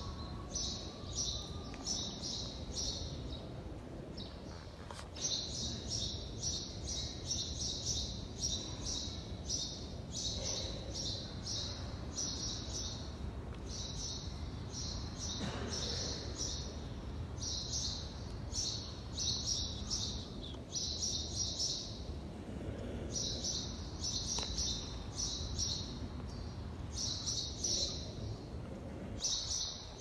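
Many small birds chirping in rapid clusters of short, high chirps with brief pauses between them, over a low steady background hum.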